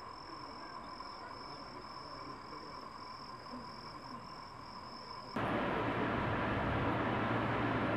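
Quiet platform ambience with a steady, faintly pulsing high-pitched tone. About five seconds in it cuts abruptly to louder, steady electric-train running noise with a low hum.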